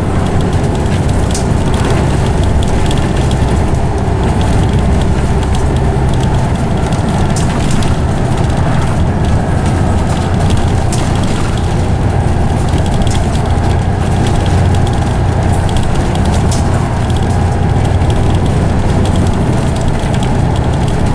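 Scania OmniCity bus's engine and ZF automatic gearbox heard from on board, running steadily with a low drone and a faint whine in the middle, over small interior rattles.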